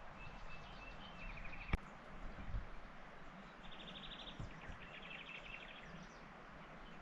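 Small birds singing short, rapid trills over a steady outdoor hiss. A single sharp knock sounds just under two seconds in.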